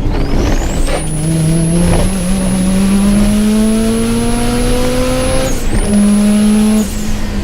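Subaru Impreza GC8's flat-four boxer engine pulling hard under acceleration, its pitch climbing steadily through a gear. About five and a half seconds in the revs break briefly for an upshift, then drop again shortly before the end.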